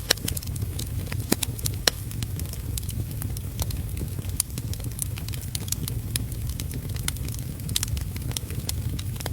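Wood fire crackling in a fireplace, with frequent sharp pops and snaps, the loudest within the first two seconds, over a steady low rumble and an even hiss of heavy rain.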